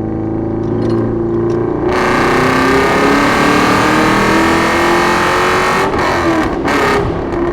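Straight-piped 2005 Ford BA XR8's Boss 260 V8, heard from a microphone at the exhaust, running on part throttle and then opening up to loud hard acceleration about two seconds in, its pitch climbing. It breaks off briefly twice near the end.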